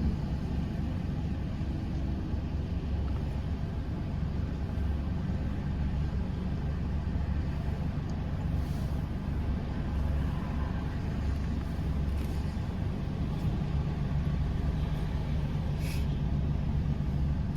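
Car engine idling, a steady low hum heard from inside the car while it waits in a drive-thru line, with a faint click near the end.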